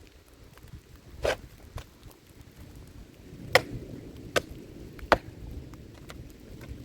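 Four sharp knocks, irregularly spaced, over a low steady rumble.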